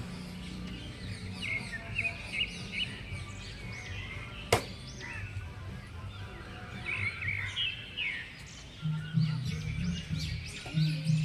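Parrot chirping in short, high calls, in two clusters, with a single sharp click about four and a half seconds in.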